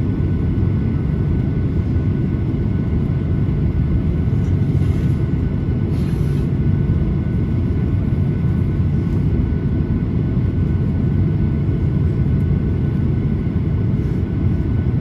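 Cabin noise inside a Boeing 737-800 with its CFM56-7B engines running: a steady low rumble with a faint, even high whine that neither rises nor falls.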